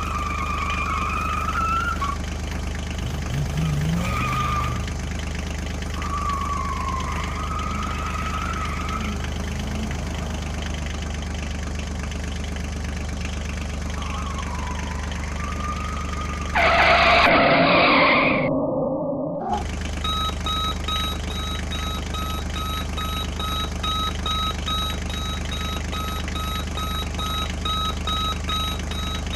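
Construction-vehicle sound effects: a steady engine hum with whines that glide up and down, a loud burst of noise about seventeen seconds in, then a reversing beeper beeping at an even rapid pace from about twenty seconds in.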